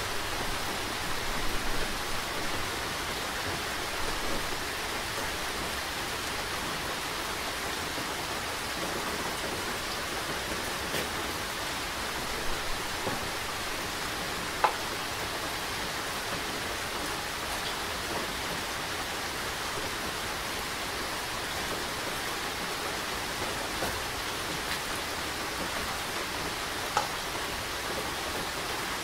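Steady rain falling, an even hiss with scattered louder drips and taps, the sharpest one about halfway through and another near the end.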